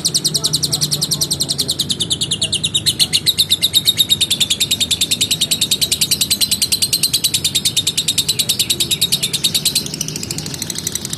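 Lovebird's long rapid chattering trill (the 'ngekek panjang' of a bird in full song): a fast unbroken run of high repeated notes lasting about ten seconds, then weakening and breaking up just before the end.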